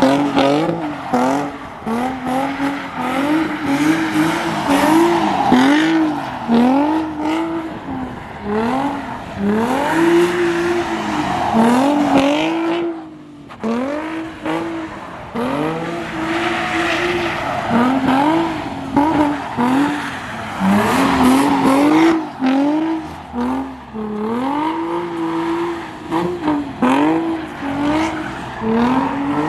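A car engine revving up and falling back over and over in quick arcs, with tires squealing and skidding on pavement.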